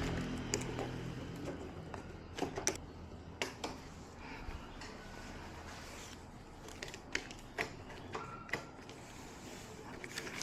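Scattered light clicks and knocks, like small objects being handled, with a louder sound fading away over the first two seconds.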